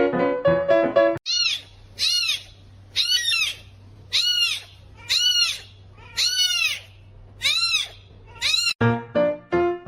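A kitten meowing over and over, about nine high, short meows, each rising and falling in pitch. Piano music plays before and after them.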